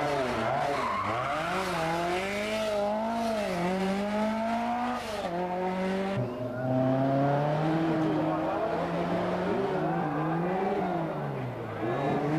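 Rally car engine being driven hard, revving up and down over and over as the driver goes on and off the throttle. The sound changes abruptly about six seconds in.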